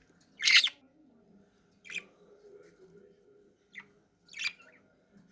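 Budgies chirping: four short, sharp calls, the first about half a second in the loudest.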